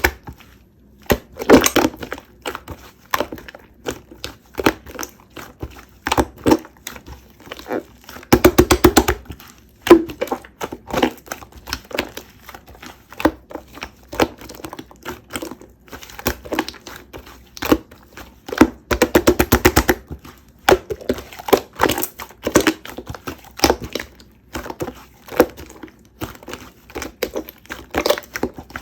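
Shine Muscat grapes being bitten and chewed close to the microphone: a run of crunchy bites and chewing clicks, with thicker bursts of crunching about a second and a half in, around nine seconds and around nineteen seconds.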